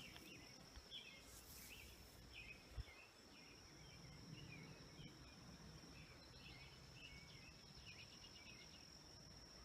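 Faint outdoor ambience: a bird chirping in short repeated phrases in two bouts, over a steady high-pitched whine that runs throughout.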